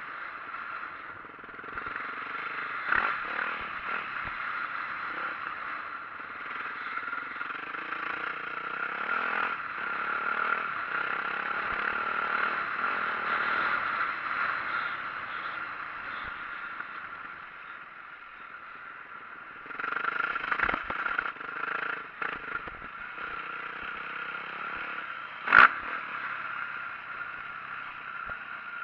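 2004 Yamaha YZ450F four-stroke single-cylinder dirt bike engine running and revving up and down while riding, with the bike clattering over rough ground. Several sharp knocks come through, the loudest about 26 seconds in.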